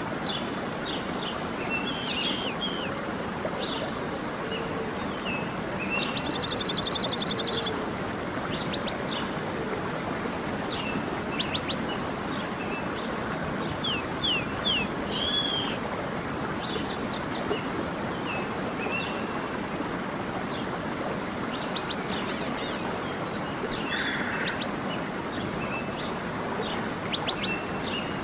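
A stream's steady rush with several small birds chirping and calling over it, one giving a quick rapid trill about six seconds in.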